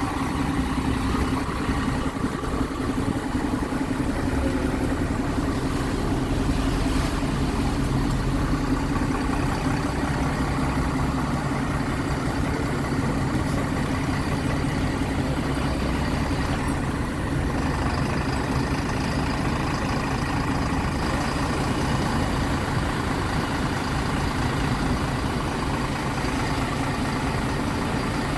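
Mitsubishi Fuso Aero Star city bus's diesel engine idling steadily shortly after a start-up.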